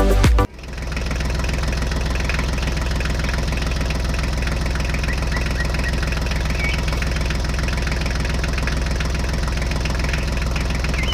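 A motor or engine running steadily: an even low hum with a fast rattle, starting suddenly about half a second in. Faint bird chirps sound above it.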